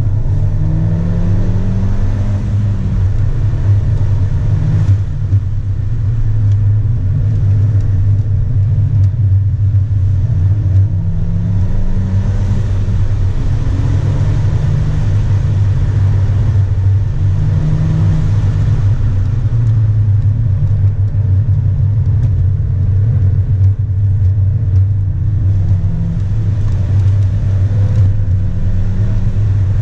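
2016 Ford Fiesta ST's turbocharged 1.6-litre four-cylinder engine heard from inside the cabin under hard acceleration. Its pitch climbs and falls back several times as the car is driven through the revs and gears, over a steady low drone.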